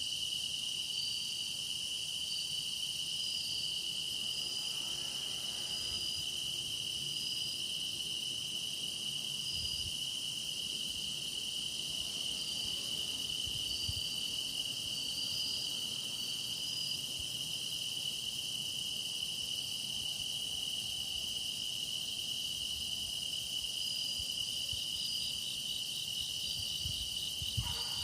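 Grass insects singing in chorus: one unbroken high trill holds steady, with shorter calls repeating above it, and a fast pulsing call joins in near the end.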